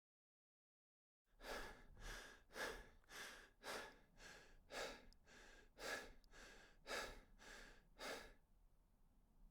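A person breathing hard and rhythmically, about two breaths a second, a dozen in all, starting after about a second of silence.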